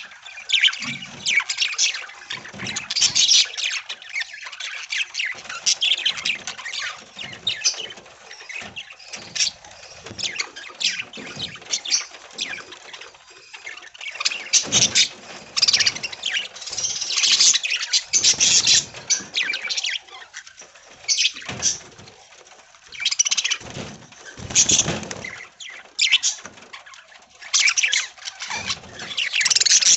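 A flock of budgies chattering and chirping without pause, many quick high calls overlapping one another.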